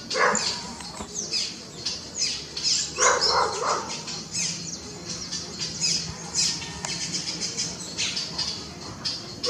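A flock of parrots squawking: many short, shrill, falling calls overlapping, with a louder, lower squawk about three seconds in.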